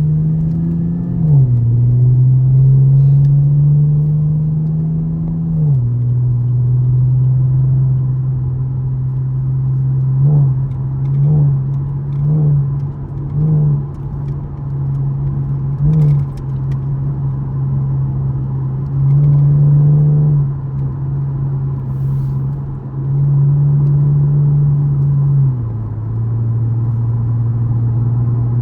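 2013 Camaro LS's 3.6-litre V6 pulling through the gears under driver-selected manual shifting: the engine note climbs and then steps down in pitch at each shift, about a second in and again near six seconds. Around the middle come four or five short quick rev blips, then two longer pulls later on, with another shift a few seconds before the end.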